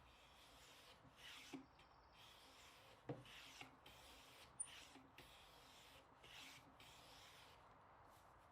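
Faint, even back-and-forth strokes of a hand tool working wood, about one to two a second, with a couple of light knocks.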